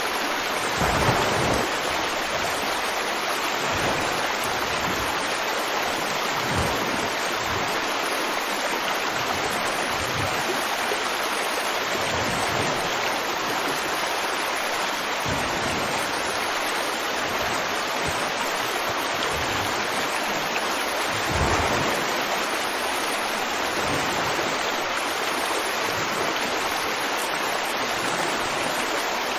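River water flowing steadily with an even rushing hiss, broken by a few brief low surges, the strongest about a second in and another about 21 seconds in.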